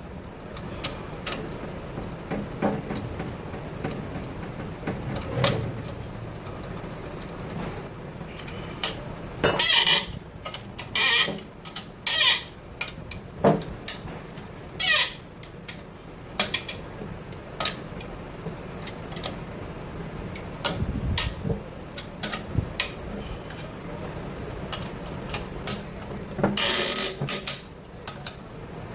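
Irregular metallic clinks, knocks and short scrapes of tools and engine parts being handled while a crankshaft is fitted into an engine block, busiest around the middle and again near the end.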